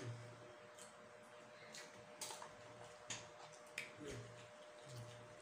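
Quiet, close-up eating: faint chewing and a few sharp mouth clicks and lip smacks scattered through, over a thin steady hum.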